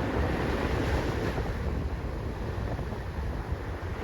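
Steady wind noise on the microphone mixed with ocean surf, a low rushing hiss with no distinct events.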